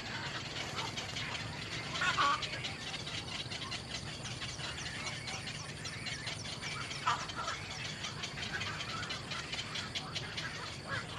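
A few short bird calls, about two seconds in and again near seven seconds, over a steady background hiss.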